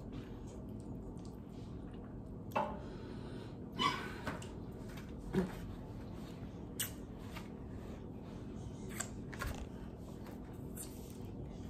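A person eating chicken wings close to the microphone: a handful of short wet mouth smacks and chewing clicks, spaced a second or two apart, over a steady low room hum.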